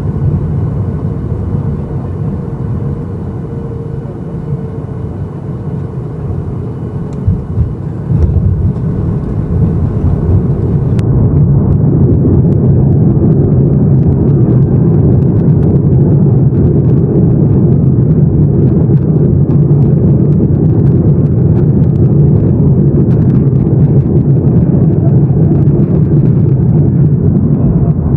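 Boeing 737-800 cabin noise from a window seat: a steady low rumble of engines and airflow. A couple of sharp thumps come about seven seconds in, after which the rumble grows louder over a few seconds and stays loud.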